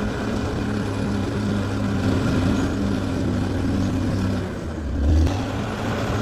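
RC scale model of a Caterpillar D6R XL bulldozer running steadily, with a brief louder low surge about five seconds in.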